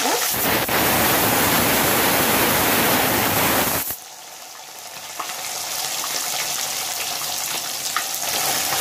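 Loud sizzling of freshly boiled soya chunks going into hot oil with whole spices in a kadai. About four seconds in it drops suddenly to a quieter sizzle that slowly builds again as more chunks are poured in, with a couple of faint clicks.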